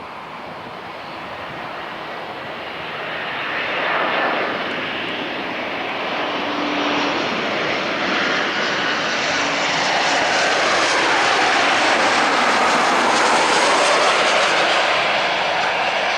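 Boeing 787-8 Dreamliner's jet engines going by, a broad roar that grows steadily louder, its tone sweeping up and down as the aircraft moves.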